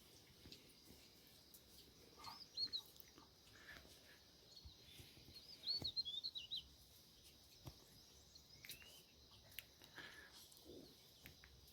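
Faint bird chirps: short high calls, a few scattered and a quick cluster about six seconds in, over a quiet background with a few soft clicks.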